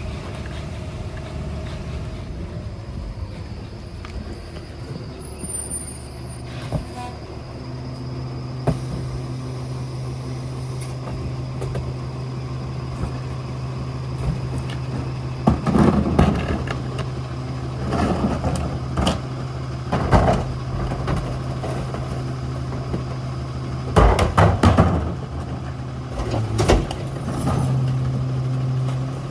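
Ford F-750 rear-loader garbage truck running with a steady engine hum that strengthens about a quarter of the way in. In the second half come several loud, short clanks and bangs.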